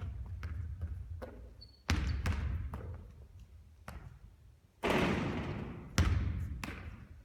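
Basketball bouncing and thudding on a hard court, a string of sharp impacts with an echoing tail, the loudest and longest-ringing one about five seconds in.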